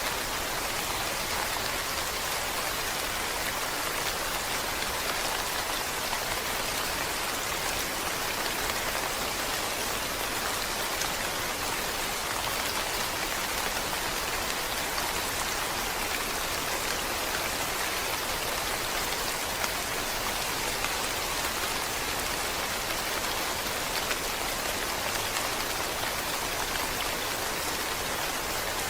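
Steady rain falling, a dense even hiss with faint individual drop ticks.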